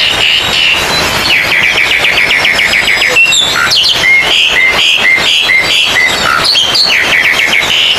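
Several oriental magpie-robins (kacer) singing over each other in loud, dense song, with fast runs of repeated chirps and rows of clear whistled notes, the sound of birds at a songbird contest.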